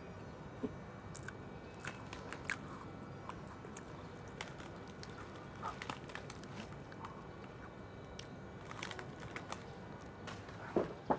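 A person biting and chewing crunchy food, irregular crunches and clicks over faint steady background noise, with the loudest crunch near the end.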